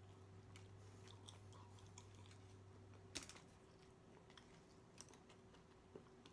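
Faint chewing of a mouthful of steak taco in a soft corn tortilla: quiet mouth clicks, the clearest about three seconds in, over a low steady hum.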